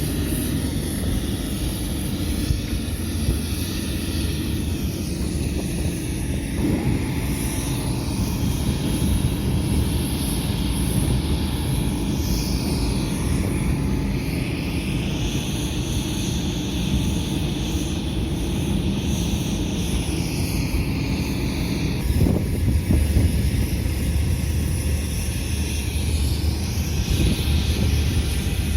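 Heavy engines on a car ferry running, a steady low rumble with a few faint rising and falling whines higher up.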